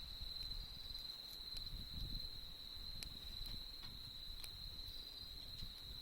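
Autumn insects singing one unbroken high trill, with sharp scattered crackles from a wood campfire and a low rumble beneath.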